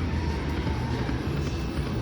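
Dancing Drums Explosion slot machine playing its game music during a spin, over a steady, dense casino-floor din.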